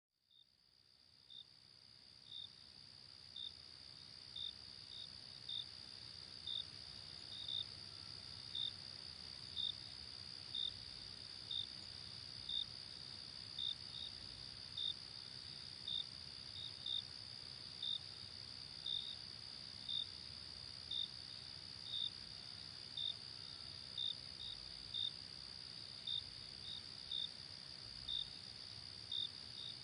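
Night insects in a forest: a steady high trill with a cricket chirping about once a second over it, sometimes twice in quick succession. The sound fades in over the first few seconds.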